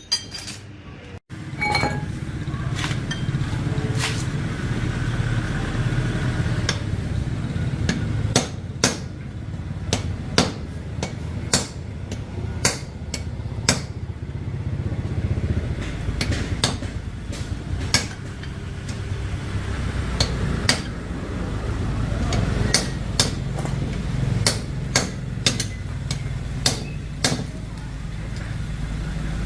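Irregular sharp taps and knocks of hand tools on hard parts, roughly one or two a second, over a steady low hum.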